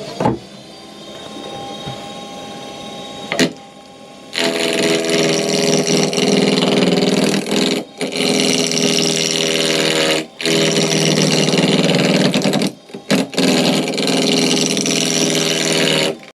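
Wood lathe running with a steady hum, then a roughing gouge cutting into the spinning wooden blank from about four seconds in. The cutting is loud and continuous, broken by three brief pauses as the tool comes off the wood.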